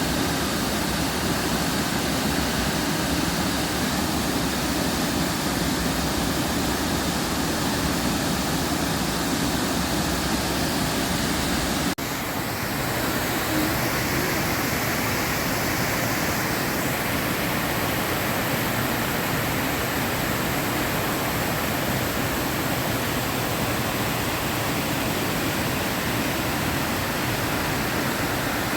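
Waterfall and creek water rushing in a steady roar. About twelve seconds in, the sound changes abruptly in level and tone, as when moving to a different spot on the falls or creek.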